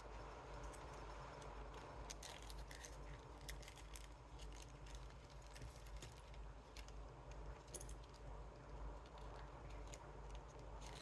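Faint, scattered light clicks and rattles of small parts and tools being handled on a soldering bench, over a low steady hum.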